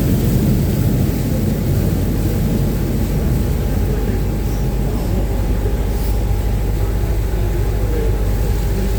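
Uber Boat river-bus catamaran running fast: a steady drone of engines with rushing wind and water, and a thin steady whine above it.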